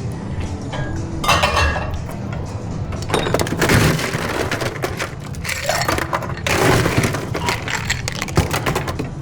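Ice and glassware clinking and clattering in several bursts of about a second each, with sharp cracks among them.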